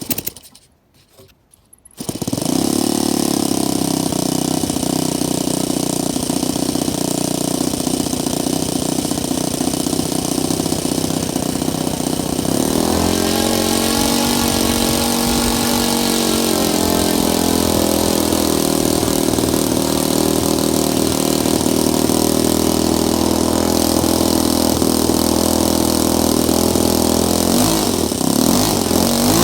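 Saito 125 four-stroke glow model-aircraft engine starting on its first run with extra castor oil in the fuel. A few short clicks, then it catches about two seconds in and runs steadily. Its pitch shifts about halfway through, then it runs on evenly.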